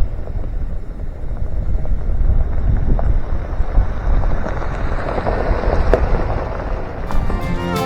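Wind buffeting the microphone, a loud low rumble with a few sharp pops; music begins near the end.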